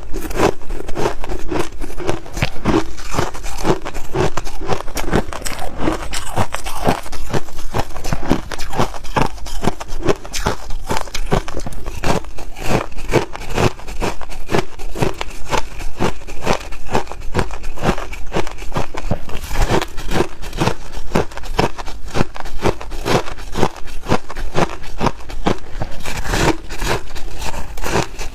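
Snow ice being bitten and chewed close up: a continuous run of crisp, rapid crunches, several a second.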